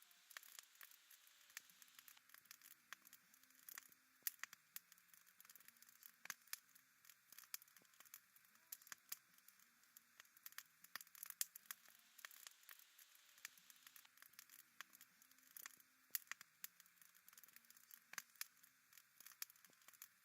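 Wood fire crackling faintly, with irregular sharp pops and snaps over a soft hiss.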